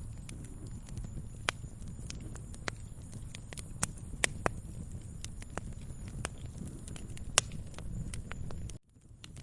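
Wood fire crackling: a steady low rumble of flames with irregular sharp pops and snaps, a few of them much louder than the rest. The sound cuts out for about half a second near the end, then starts again.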